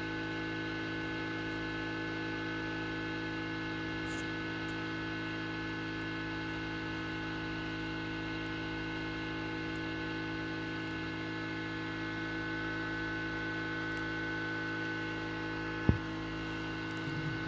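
Steady electrical hum with several fixed tones, with a single brief tap or knock near the end.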